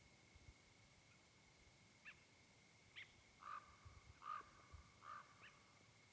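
Near silence with faint bird calls: a few short chirps, then three calls about a second apart in the second half, over a faint steady high-pitched tone.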